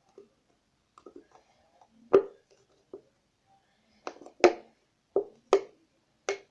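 A series of irregular sharp knocks and taps of hard objects, about six in all, the loudest about two seconds in and again about four and a half seconds in, with faint clattering between them.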